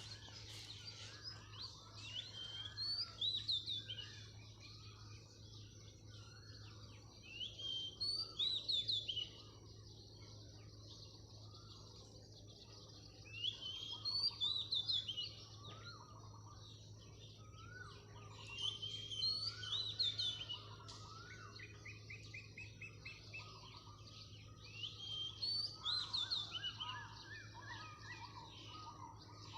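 Birds singing at dawn: one bird repeats a short, loud, high chirping phrase about every five to six seconds, while other birds call more softly underneath, including a brief trill a little past the middle.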